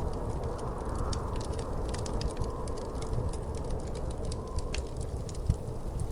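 Wood fire in a fireplace crackling, with irregular small pops over a steady low rumble and one sharper pop about five and a half seconds in.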